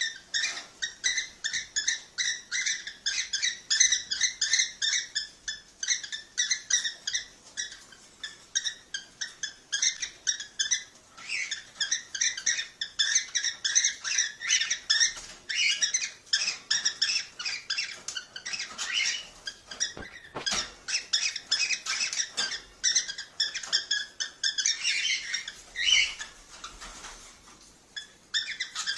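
Cockatiels chirping and chattering in fast, overlapping runs of high calls, starting abruptly out of silence.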